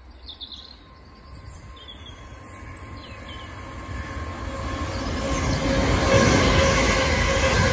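Class 450 Desiro electric multiple unit approaching and passing. Its rumble and rail noise grow steadily louder to a peak about six seconds in, with a steady whine running through it. Birds chirp faintly over the quiet start.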